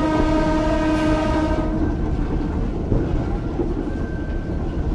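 Ueda Kotsu Moha 5253 round-window electric railcar under way, heard on board. A horn sounds one steady note for about two seconds, then the car's running rumble carries on.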